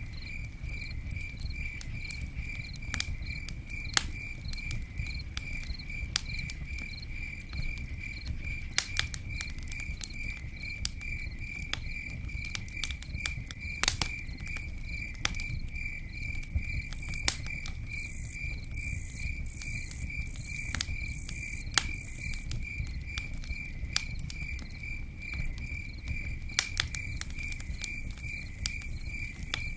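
Campfire crackling with scattered sharp pops over a steady low rumble of the fire, while a cricket chirps in an even, rapid pulse throughout. A second, higher-pitched insect trills for a few seconds in the middle and again near the end.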